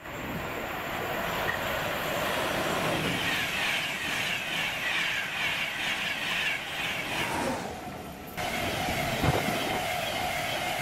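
A Class 91 electric express of Mk4 coaches passing close by at speed without stopping: rushing wheel and rail noise that builds over the first few seconds, with a rapid rhythmic clatter of wheels over the rail joints. The sound changes abruptly about eight seconds in, and a short knock follows a second later.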